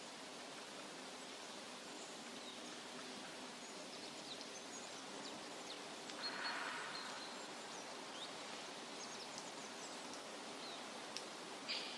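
Steady natural forest ambience: an even hiss, with faint high bird chirps scattered through and a brief louder rustle about six and a half seconds in.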